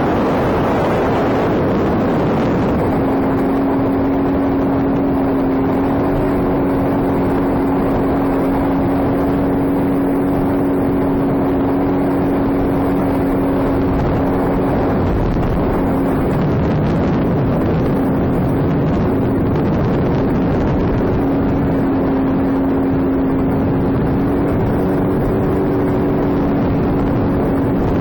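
Sea-Doo jet ski engine running at a steady cruising speed under a constant rush of wind and water. The engine note holds steady, fades for a few seconds past the middle, then returns.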